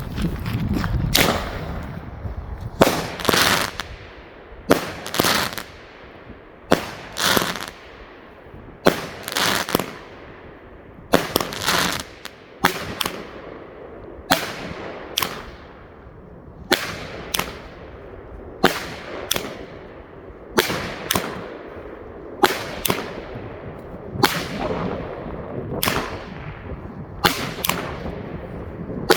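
A 20-shot, 25 mm fireworks cake firing a sequence of salutes: a steady run of sharp bangs, often in pairs, roughly one to two a second, each trailing off in an echo.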